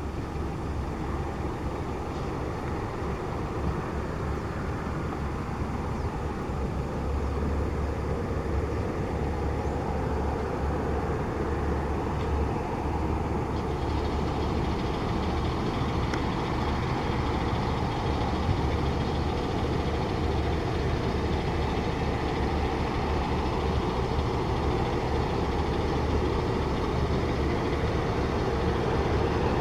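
Steady engine noise from a light aircraft, either a business jet or a turboprop, growing gradually louder.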